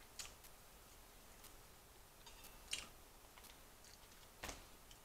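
Faint sounds of eating fried chicken: three short clicks of chewing and mouth noise, the loudest nearly three seconds in, over near silence.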